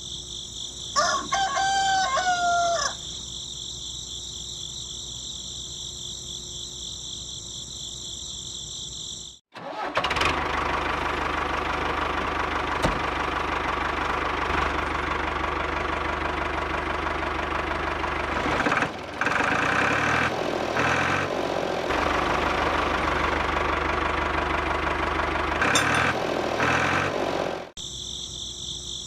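A rooster crows once over a steady chorus of insects. The sound then cuts to a tractor-driven straw blower running loudly for about eighteen seconds, its sound shifting a few times. The insect chorus returns near the end.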